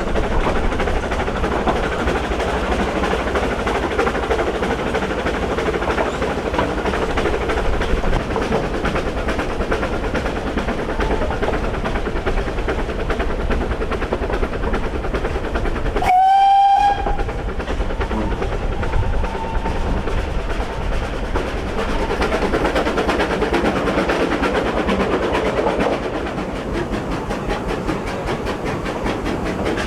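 Vale of Rheidol narrow-gauge steam train running steadily, with one short whistle blast about halfway through.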